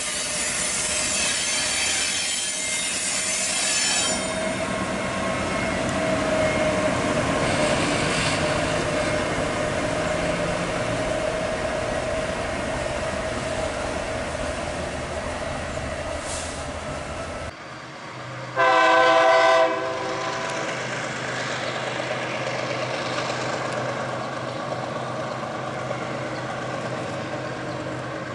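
Freight train rolling on the mountain line, its wheels squealing on the curves over a steady rumble. After an abrupt cut, a diesel locomotive sounds its horn once, loud, for about a second and a half, and the train keeps running.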